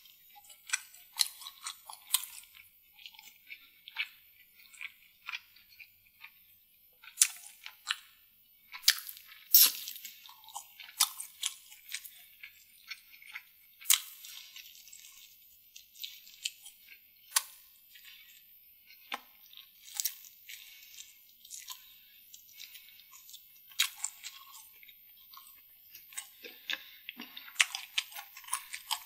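Close-miked chewing of a mouthful of saucy devilled food: irregular wet smacks and sharp mouth clicks, with short quiet gaps between them.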